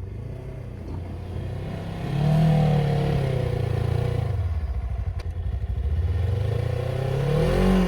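UTV engine with a Rammy single-stage snowblower running in deep snow, revving up and easing back down twice, about two seconds in and again near the end, as the machine gets stuck.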